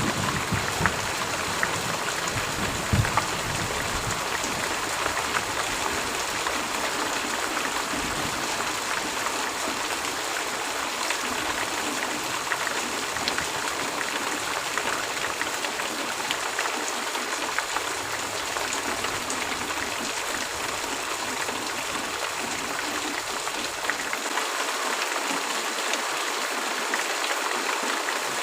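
Heavy rain falling steadily: a dense, even hiss with fine ticks of individual drops, and a few brief low thumps in the first few seconds.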